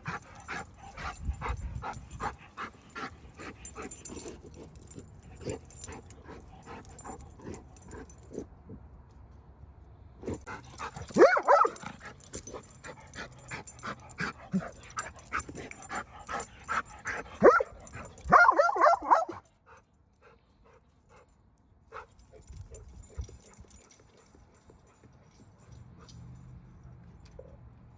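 Beagles barking and yipping in short loud bursts, once about eleven seconds in and again around seventeen to nineteen seconds, between stretches of quick scratchy rustling from the dogs at play and digging. The last third is quieter, with only scattered small sounds.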